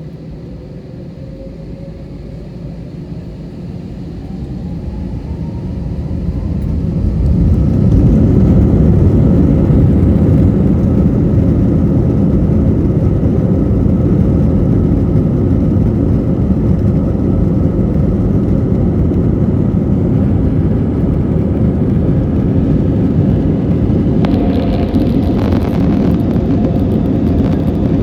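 Airbus A321's jet engines spooling up to takeoff thrust, heard from inside the cabin: a whine rising in pitch and a rumble that grows louder over the first several seconds, then a steady loud rumble of the takeoff run.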